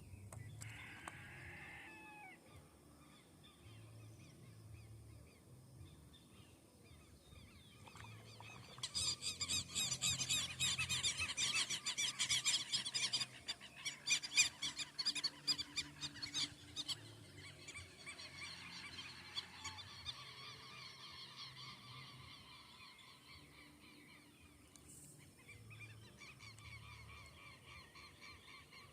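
A flock of birds calling: a dense, loud stretch of rapid, repeated calls from about nine seconds in, lasting around eight seconds, with fainter scattered calls before and after.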